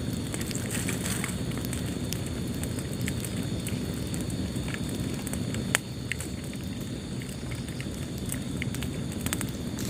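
Wood fire burning in a fireplace: a steady low rumble of flames with scattered small crackles, and one sharp pop a little before six seconds in.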